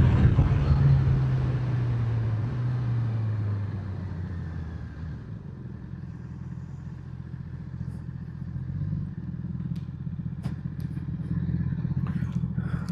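Motorcycle engine easing off, its note falling in pitch over the first few seconds as the bike slows, then running low and steady, with a few light clicks in the second half.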